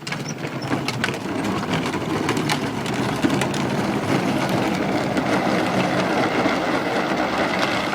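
Hard wheels of a ride-on toy rolling fast down a paved slope: a steady rattling rumble dense with small clicks.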